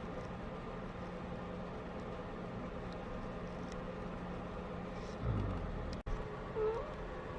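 A steady mechanical hum with a low rumble swelling about five seconds in, and a short wavering call near the end.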